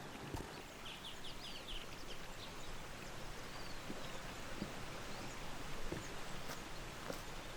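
Outdoor ambience: a small bird chirps a quick run of short high notes about a second in, with a fainter call a little later, over a steady background hiss and a few soft low knocks.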